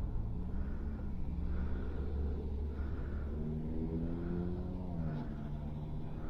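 Motor vehicle engine running over a steady low rumble of road noise, with an engine note that rises in the middle and drops away about five seconds in as a vehicle goes past.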